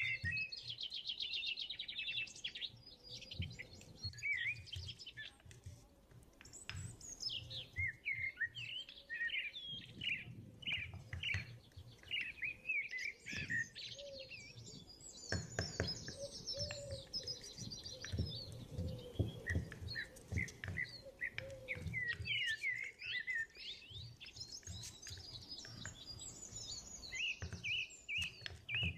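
Small birds chirping and twittering: a busy stream of quick chirps and short trills, with a few soft knocks underneath in the middle.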